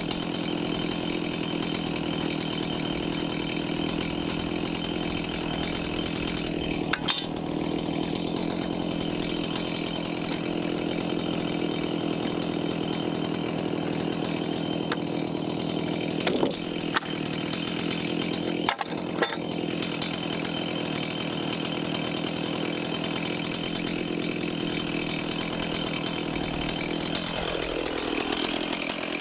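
Chainsaw running at steady high speed, cutting joinery into a large timber sill plate, with a few short knocks along the way. Near the end the engine pitch drops as the throttle is let off.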